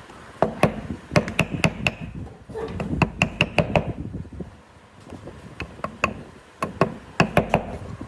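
Hammering on wood: three quick runs of sharp blows, each lasting a second or two, with short pauses between them.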